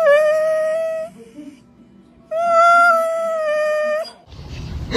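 A dog howling: two long, nearly steady-pitched howls, the second starting about two seconds in. Near the end a rush of noise comes in.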